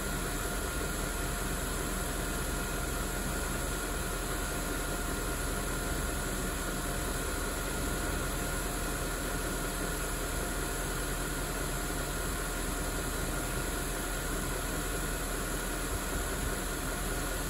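BMW 740i E38's 4.4-litre V8 idling steadily while it warms up after a cold start, with a thin, steady high whine over the even engine noise.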